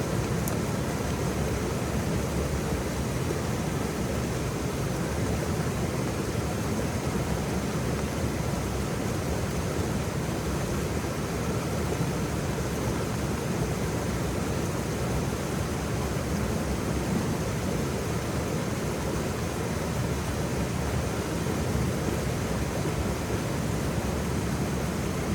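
Waterfall: a steady, even rush of falling water, strongest in the low range.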